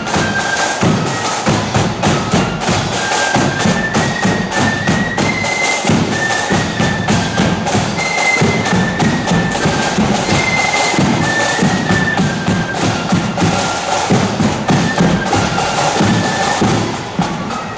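Marching flute band playing: a unison melody of flutes over snare drums and a heavy bass drum beat.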